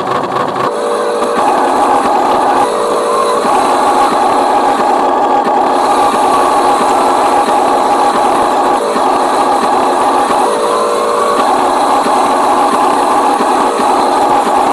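Electric drive motor and gearbox of a remote-control Scania truck whining steadily, the pitch stepping up and back down several times as the throttle changes.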